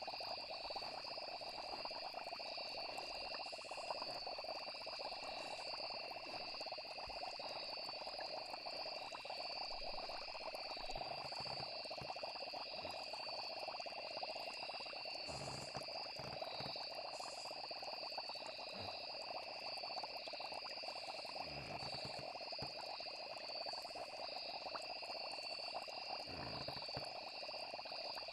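Night nature ambience: a steady high trilling of crickets over a dense frog chorus, with a few soft low swells about halfway through and near the end.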